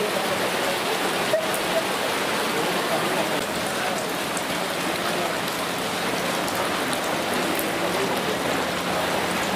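Torrential rain falling steadily onto a flooded street, an even, unbroken hiss of rain on standing water.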